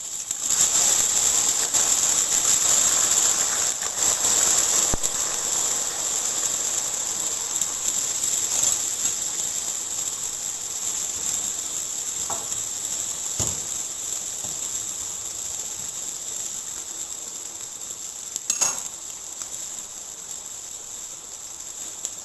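Chicken, potatoes and tomatoes sizzling as they fry in oil in a pot, a steady hiss that slowly dies down. There are a few light clinks along the way.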